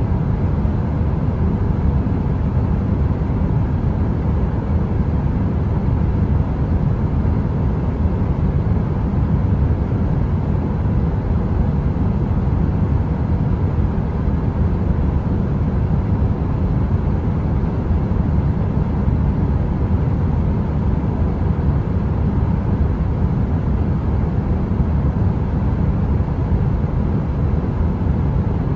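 Electric heater running: a steady, unchanging low rumbling whoosh of noise with a faint hum-like tone in it.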